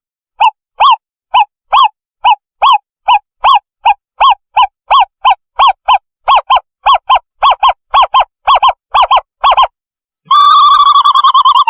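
Recorded owlet call played loud as a bird lure: short pitched hoots, first about two a second and quickening to about four a second, that break into a continuous warbling trill near the end.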